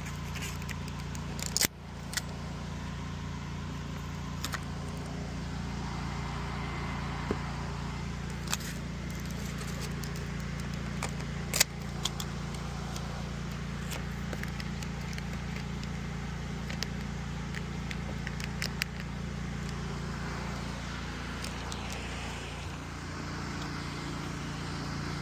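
Pressure washer running steadily, its engine humming under an uneven hiss of water spray, with a few sharp clicks and knocks.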